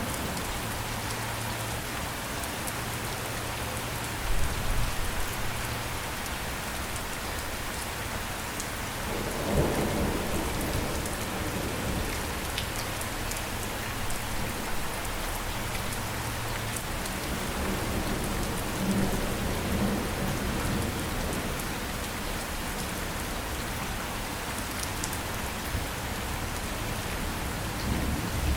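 Steady rain falling, a continuous hiss of drops, with low rumbles of thunder rolling in several times. The strongest rumbles come about 4 and 10 seconds in.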